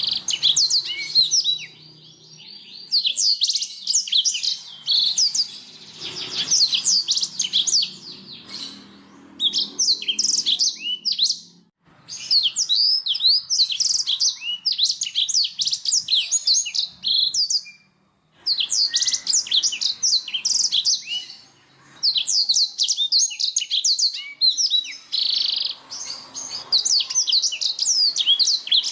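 Canary singing: long runs of fast, high trills and rapid chirps in phrases several seconds long, broken by brief pauses.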